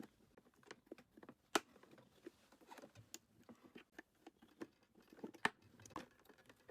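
Plastic top shell of a rice cooker lid being pried off with a tool wedged in: faint, scattered clicks and snaps as the plastic catches around its edge let go, the sharpest about one and a half seconds in and again later on.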